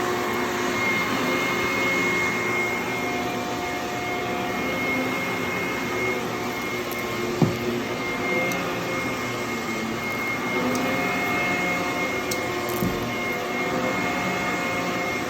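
HYLA water-filter vacuum cleaner running steadily with a constant high whine. There is a single sharp click about halfway through.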